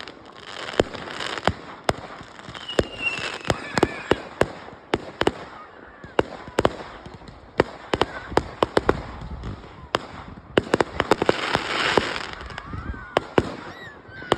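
Fireworks display: a rapid, irregular run of sharp bangs from bursting fireworks, thickening into a dense cluster of bangs about two thirds of the way through, over a continuous noisy wash.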